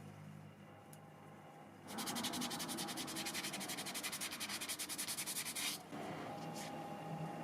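Hand sanding of a small model-car part: rapid, even back-and-forth rubbing strokes that start about two seconds in and stop abruptly a little under four seconds later.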